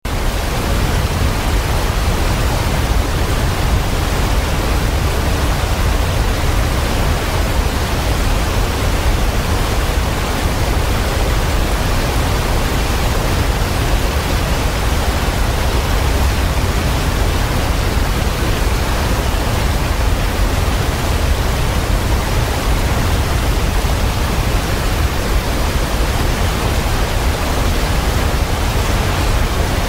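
Waterfall pouring in a steady, dense rush of water, deepest in the low range, with no birdsong or other sounds over it.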